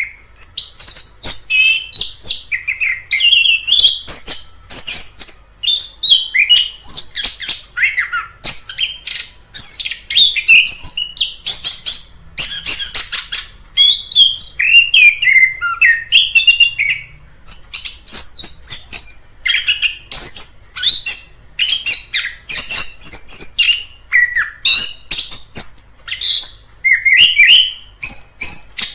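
Orange-headed thrush singing a long, varied song of quick, high phrases that run on with barely a pause.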